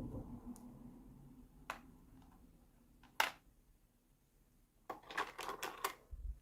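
Small plastic miniature kitchen toy pieces clicking and tapping as they are handled: a single sharp click about three seconds in, then a quick run of clicks near the end.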